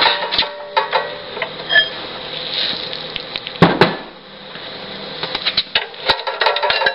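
Steel square tubing being handled between cuts, clinking and knocking, with one louder metal clang about three and a half seconds in.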